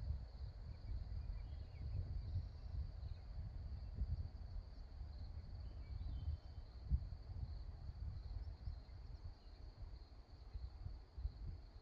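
Insects trilling steadily at a high pitch, over a low, uneven rumble of wind on the microphone.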